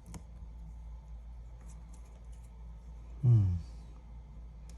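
A short, wordless voice sound, a falling "hmm", about three seconds in, over a steady low hum and a few faint clicks.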